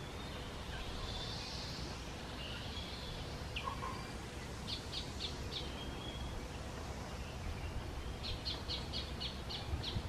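Birds chirping over faint outdoor background noise: a short run of quick high notes about five seconds in, then a longer run of rapid high chirps, about four a second, from about eight seconds on.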